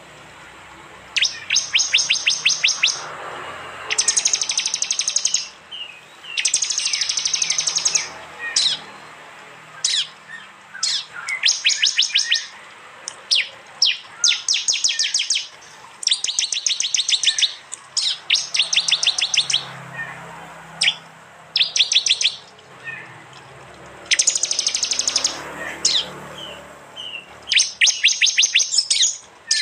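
Prenjak (prinia) song: repeated bursts of rapid, sharp clicking trills, the 'tembakan' used for training songbirds, each burst one to two seconds long, with short single chips between them.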